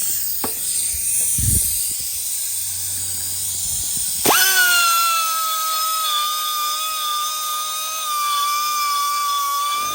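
Dremel rotary tool running with a high whine. About four seconds in a louder, steady whine starts suddenly, typical of the tool grinding into the metal of the wheel hub extractor to trim it.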